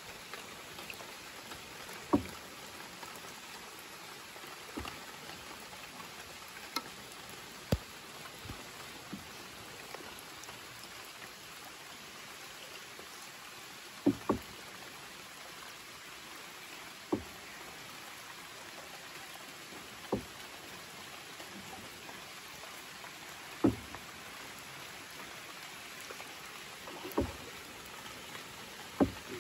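Rain falling steadily onto still water and the surrounding forest, an even hiss, with about a dozen short sharp plops at uneven intervals of a few seconds.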